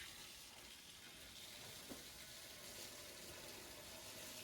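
Faint, steady hiss of water running from a garden hose, flooding rat holes in the ground.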